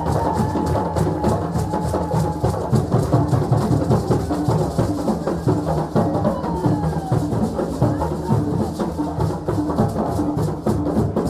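West African celebration drumming: several drums playing a fast, dense, driving rhythm with deep strokes, and crowd voices faintly underneath.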